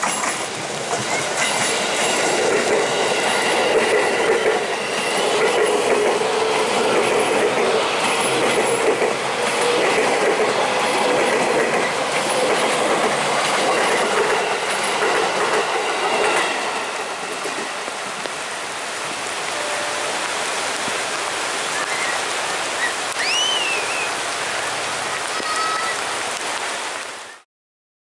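KRL Commuter Line electric train passing, its wheels clattering over the rail joints with thin high wheel squeal. Loudest for the first half, then easing as it moves away, and the sound cuts off abruptly near the end.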